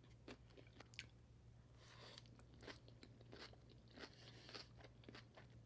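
Faint chewing: a person eating, with irregular soft mouth clicks scattered through, over a low steady hum.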